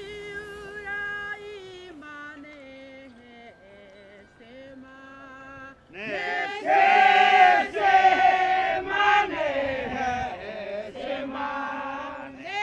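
Voices singing a chant, held notes that change pitch slowly. It is soft at first, then a louder, fuller group of men's and women's voices comes in about six seconds in.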